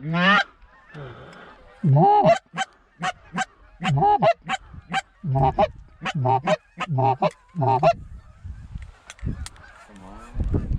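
Canada goose honks and clucks: one rising call, then a quick regular run of short honks, about three a second, for several seconds.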